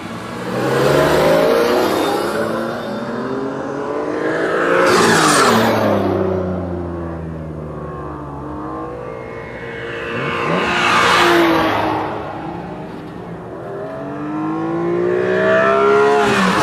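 Several cars driving past one after another, engines swelling and fading four times, each engine's pitch rising as it nears and dropping as it goes by.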